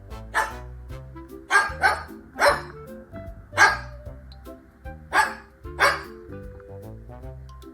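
A dog barking about seven times in short single and paired barks, over background music.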